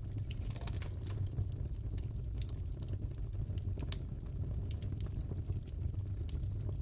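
Crackling wood fire in a fireplace: irregular sharp pops and snaps over a steady low rumble of the flames.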